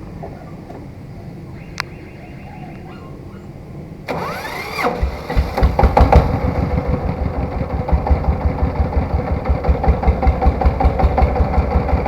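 A three-wheeled farm tractor's engine starting about four seconds in: a short rising-and-falling whirr as it is cranked, then it catches and settles into a loud, steady, low pulsing beat.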